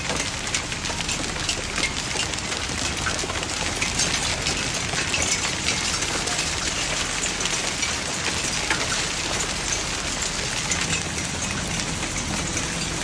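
Hail pounding down, a steady, dense hiss thick with countless small impacts.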